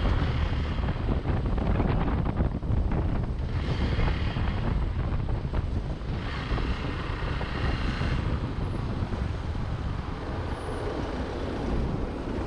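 Motorcycle riding on the road, its engine running under heavy wind rush on the microphone. The rumble is steady, with two louder stretches of hiss in the middle.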